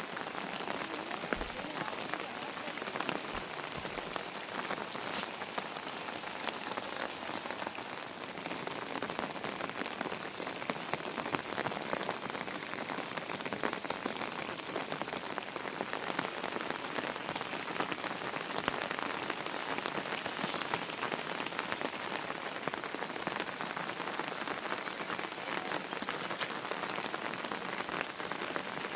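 Heavy rain falling steadily: a continuous hiss with a dense patter of individual drops hitting a surface.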